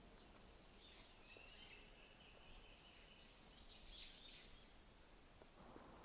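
Near silence in a forest, with a faint bird calling: a thin high note held for a second or two, then a quick cluster of high notes. A soft hiss comes up near the end.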